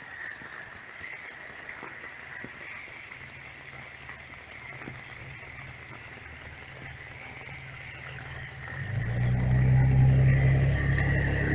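A steady wet outdoor background with a constant high chirring band, typical of a frog chorus. About nine seconds in, a car engine grows loud as the car approaches along the rain-soaked street.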